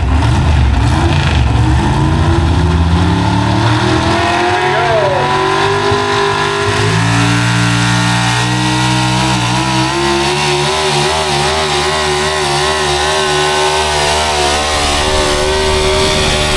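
Pulling truck's engine running hard at high revs under load, its pitch climbing over the first few seconds and then holding steady with a slight waver.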